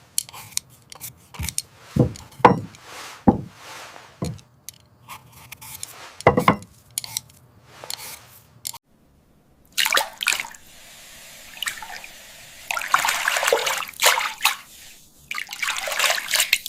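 Kitchen sounds of cooking: a run of sharp knocks, then water splashing and dripping in stretches through the second half.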